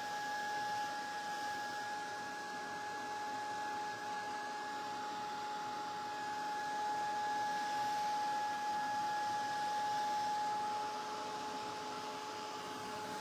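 Heat tool running with a steady high whine over rushing air, heat-setting freshly applied paint dots so they don't run.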